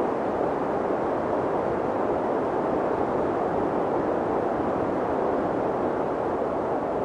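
Wind blowing steadily: an even, deep rushing noise with no gusts, breaks or other sounds.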